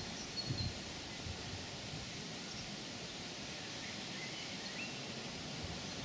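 Steady outdoor background hiss with a few faint, short bird chirps, and a couple of low bumps in the first second.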